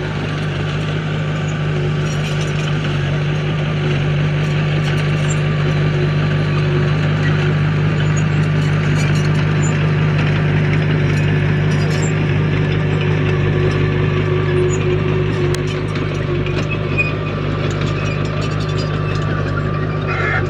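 Diesel engine of heavy earthmoving equipment running steadily, a low even drone with scattered faint ticks and rattles above it.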